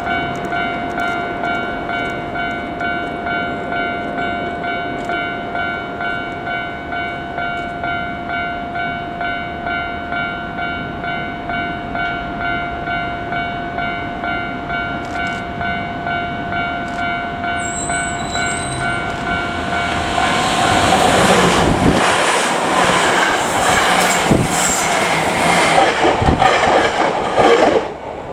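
A Japanese level crossing alarm rings in a steady repeating pulse. About twenty seconds in, a Hankyu 3300 series seven-car electric train passes close by, its wheels clattering over rail joints and drowning the bell, until the sound drops away sharply near the end as the last car clears.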